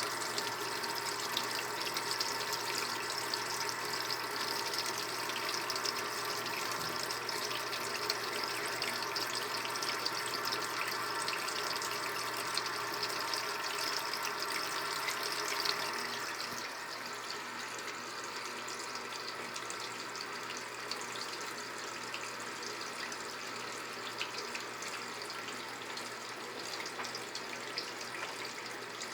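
Brastemp Ative top-loading washing machine filling: water runs steadily into the drum. About halfway through the flow gets a little quieter and duller.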